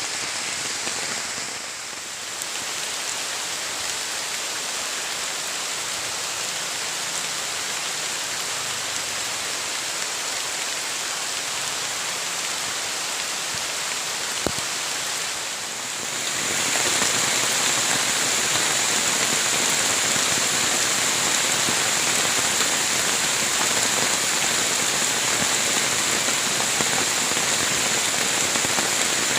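Heavy rain falling steadily, an even hiss that grows louder about two-thirds of the way through. One sharp click about halfway.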